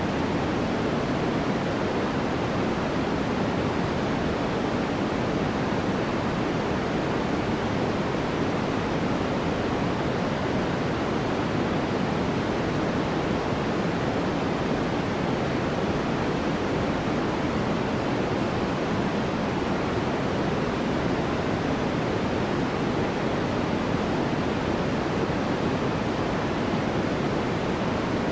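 Steady, unchanging synthetic noise played for sleep: an even hiss weighted toward the low and middle range rather than the treble, closer to pink noise than flat white noise.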